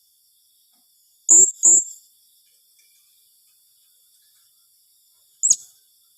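Blue-crowned hanging parrot (serindit) giving sharp, high calls: a quick pair about a second in, then a single call near the end that drops in pitch.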